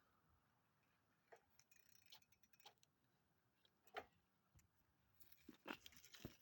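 Near silence with a few faint, irregular clicks, more of them close together near the end.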